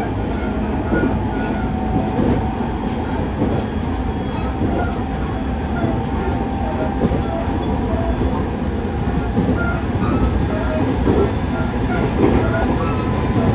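Running noise inside a JR 209 series 2100 subseries electric commuter car at speed: a steady rumble of the wheels on the rails, with faint whining tones that come and go and occasional light clicks over the track.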